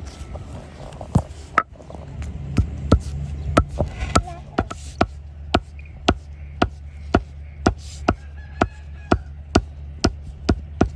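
Sharp, evenly spaced taps, about two a second, starting about two seconds in, over a low steady hum.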